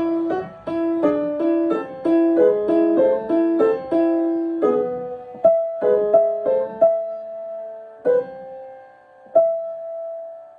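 Piano being played: a melodic phrase of single notes over a simple accompaniment that slows down, ending on a long held note that fades away near the end.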